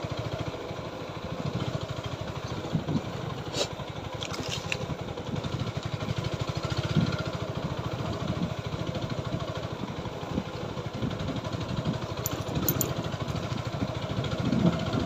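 TVS Apache 4V motorcycle's single-cylinder engine running steadily, with a few sharp clicks and rattles here and there.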